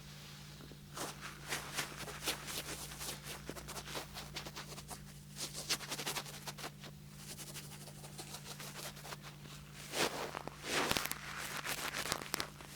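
Rapid, irregular light tapping and scratching close to a 3Dio binaural microphone, with a louder burst of rubbing and scratching about ten seconds in. A faint steady low hum runs underneath.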